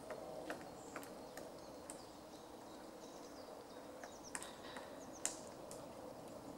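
Faint woodland ambience: small birds give short, high chirps now and then over a steady low background hum. A few sharp ticks or taps are scattered through it, the loudest about five seconds in.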